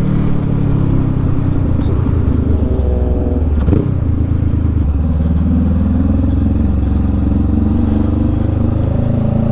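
Motorcycle engine running under way, its pitch shifting about three and a half seconds in and then climbing slowly toward the end.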